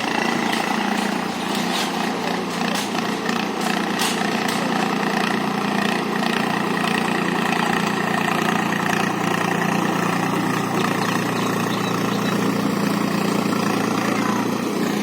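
Tractor engine running steadily at a constant speed, with a few sharp clicks about three to four seconds in.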